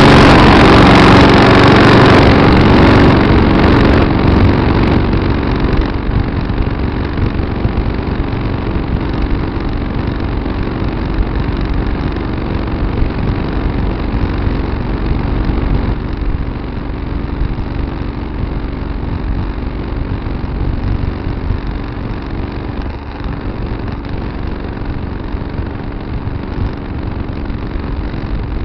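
Tractor engine running steadily, louder for the first few seconds and then settling to an even level.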